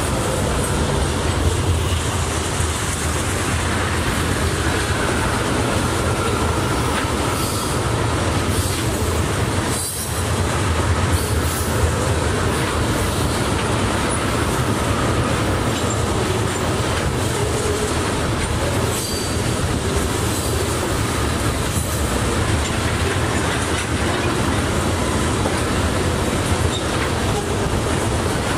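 Freight train tank cars rolling past: a steady, heavy rumble of steel wheels on rail, with a faint wavering wheel squeal.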